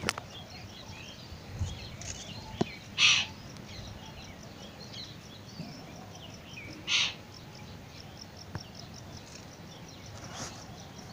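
Outdoor bird calls: two short, harsh calls about four seconds apart and a fainter third near the end, over a faint, fast, high-pitched chirping.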